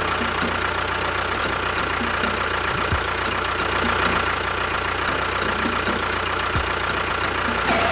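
A small engine running steadily at idle, with a light regular ticking, on a homemade mini tractor-bulldozer.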